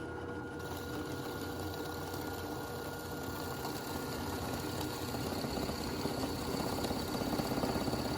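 Electric drill running steadily with a high whine as it bores holes in the wooden feeder top.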